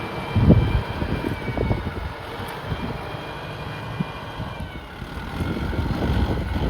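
Kubota tractor's diesel engine running steadily, with a few short knocks in the first two seconds. It grows louder near the end.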